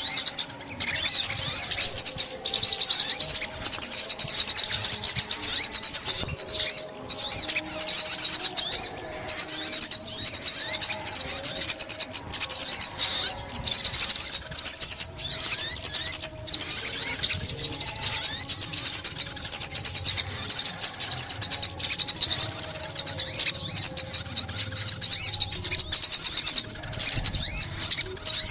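High-pitched songbird call of the small bird that Vietnamese bird-keepers call ốc mít: a fast, unbroken stream of rapid chirps and twittering trills, the kind of call played as a trapping lure.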